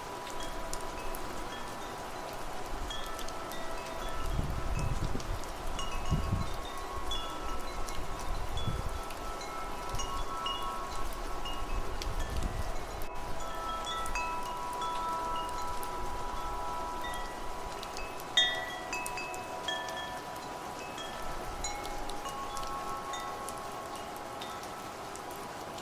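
Wind chimes ringing irregularly, many overlapping metallic tones with a steady hum of sustained notes, and one louder strike about three-quarters of the way through. Low wind gusts rumble under them through the first half.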